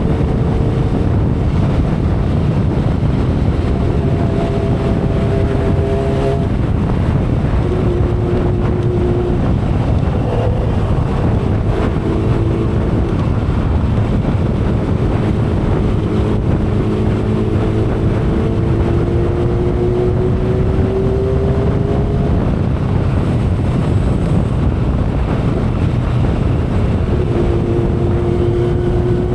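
2012 Kawasaki Ninja ZX-10R inline-four engine running at expressway speed under heavy wind rush on the microphone. The engine note fades in and out of the wind and in places rises slowly in pitch as the bike gathers speed.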